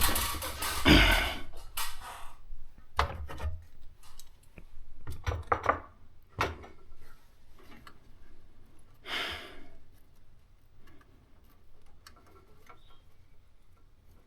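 Hard objects being handled: scattered clicks and knocks, loudest in the first two seconds, with a short rustle about nine seconds in.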